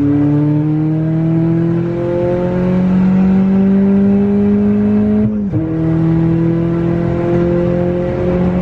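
Turbocharged 1.5-litre four-cylinder of a 2018 Honda Accord with full bolt-on modifications, heard from inside the cabin, pulling hard under acceleration with its note climbing steadily. About five seconds in the revs drop sharply for a manual upshift, then the engine climbs again more slowly in the next gear.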